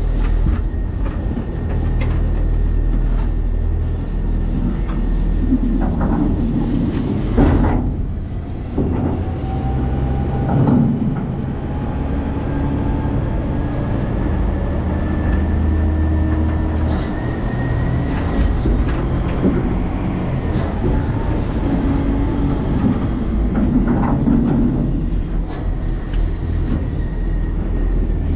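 New Way Sidewinder side-loading garbage truck running, heard from inside its hopper: a steady low engine drone with clanks and rattles, the loudest about seven and eleven seconds in. A faint whine rises slowly through the middle.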